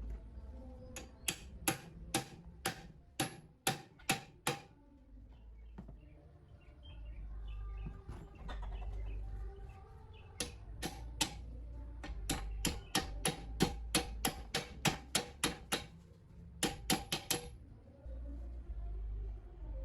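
A series of sharp taps, like a small hammer on metal parts, in three runs. The runs go at about two to three taps a second, the last is a quick cluster of four, and a low steady hum lies underneath.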